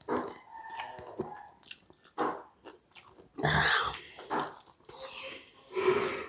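Close-miked chewing and mouth noises from eating rice and vegetable curry by hand, coming in irregular bursts, loudest about three and a half seconds in and again near the end.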